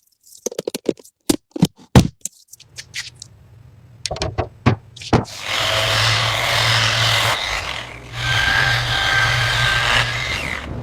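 Workshop tool sounds: a quick run of sharp knocks and clicks, then from about five seconds in a power tool running steadily with a low hum, dropping out briefly about eight seconds in.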